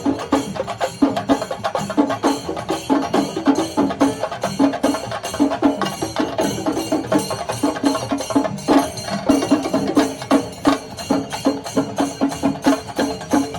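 Traditional Kerala temple percussion ensemble, drums struck in fast, unbroken strokes with a ringing drum tone, played as a continuous festival rhythm.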